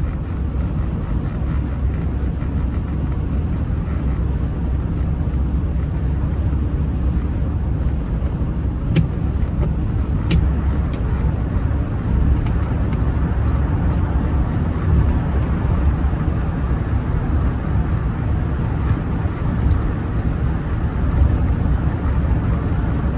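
Steady low rumble of a Rolls-Royce Silver Spirit III on the move, its engine and road noise heard from inside the cabin. The car is running smoothly. A couple of faint clicks come near the middle.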